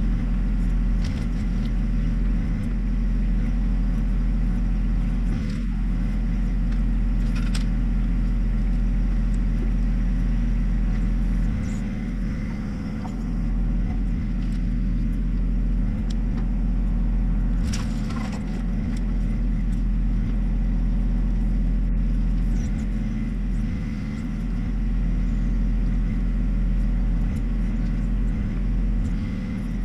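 John Deere 1025R tractor's three-cylinder diesel engine running steadily, with a couple of brief knocks or clanks.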